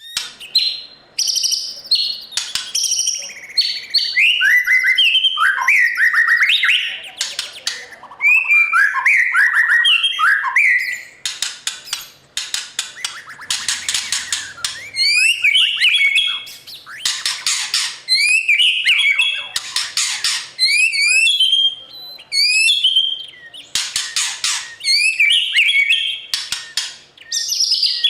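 White-rumped shama singing loudly: a run of varied whistled phrases with quick rising and falling notes, broken by harsh, rasping chatter and short pauses between phrases.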